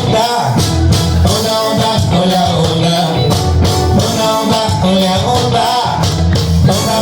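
A band playing upbeat dance music live, with a steady beat, a stepping bass line and a melodic lead line on top.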